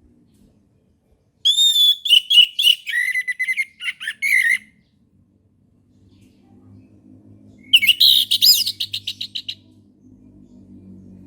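Orange-headed thrush singing two quick phrases of varied whistled and rapidly repeated notes, the first about three seconds long and the second about two. A faint low hum is present during the second half.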